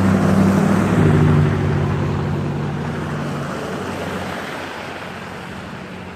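A car driving past: engine hum and tyre noise loudest in the first second or so, the engine tone dropping in pitch about a second in as it passes, then fading steadily away.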